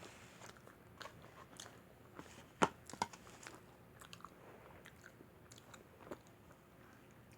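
A person chewing and biting pepperoni pizza, with small mouth clicks and two louder, crunchy bites about two and a half and three seconds in.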